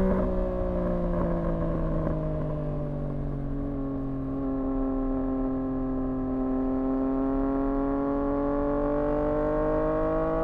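2024 Yamaha MT-09's three-cylinder engine through a Dominator HP6 aftermarket exhaust, running at part throttle. Its pitch sags slowly through the first half, holds, then climbs gently near the end.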